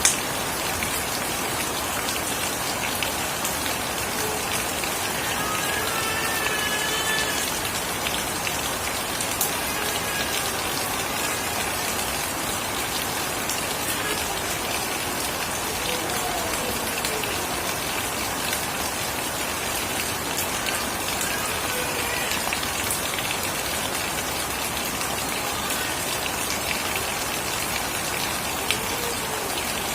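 Steady rain falling on surfaces, a dense even hiss with individual drops ticking through it, and one sharper drip near the end.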